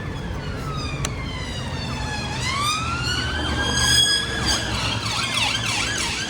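Emergency vehicle siren wailing: a slow falling then rising tone, switching to a fast up-and-down yelp near the end, over low traffic rumble.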